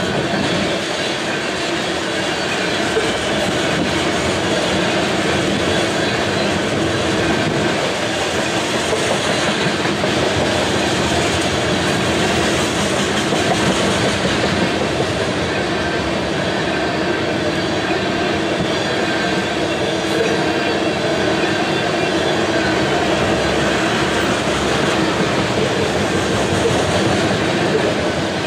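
Tank cars of a CSX freight train rolling past, their steel wheels running steadily on the rails.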